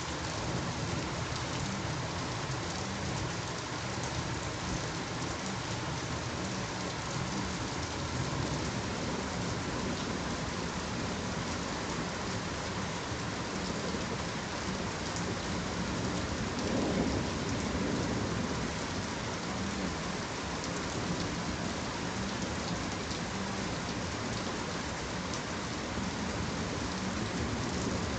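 Steady rain falling, with a low rumble underneath that swells briefly a little past halfway through.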